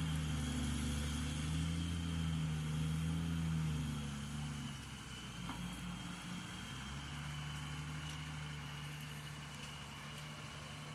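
Heavy machine engine running steadily. It eases to a lower, quieter hum about four seconds in and then holds steady. A thin, steady high whine runs alongside it.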